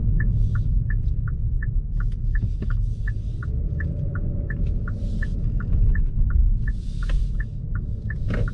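Inside the cabin of a Hyundai Grandeur 3.3, a steady low rumble of road and engine noise, with the turn-signal indicator ticking evenly at about three clicks a second.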